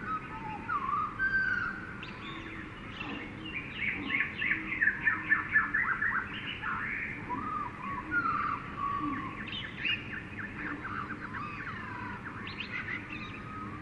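Jungle ambience of many birds calling and chirping over one another, with whistled gliding notes and a loud run of rapid repeated calls about four to six seconds in.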